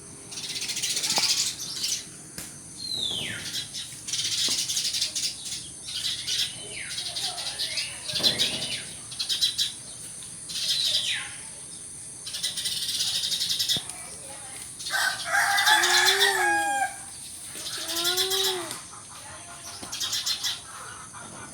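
Sparrows chirping in repeated bursts of high twittering. Roughly three-quarters of the way in, a rooster crows twice, lower and louder.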